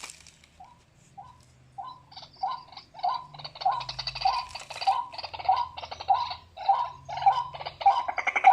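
Recorded white-breasted waterhen call played through a portable bird-call loudspeaker: one short note repeated nearly twice a second, starting faint and growing steadily louder.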